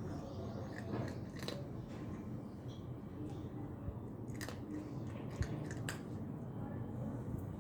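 A cat chewing dry kibble: irregular sharp crunches, a few to the second.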